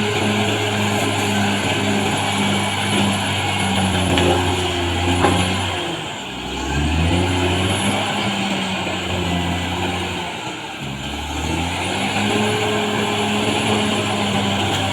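Caterpillar D6R XL bulldozer's diesel engine running under load, its pitch sagging twice and climbing back as the load comes on and eases, with a thin high whine above it.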